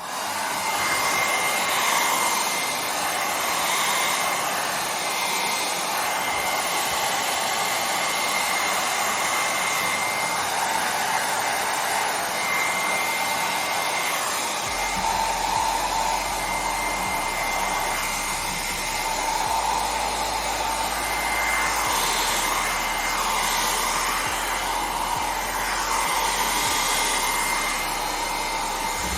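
Handheld hair dryer running steadily, a rush of blown air with a steady motor whine, used to dry out a water-damaged car stereo head unit.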